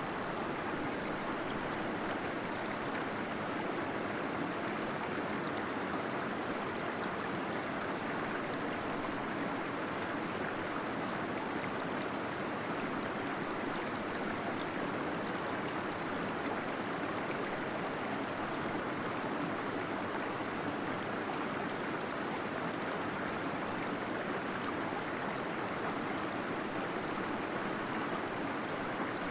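Small waterfall splashing and gurgling steadily into a pool inside a cave, a constant rush of flowing water.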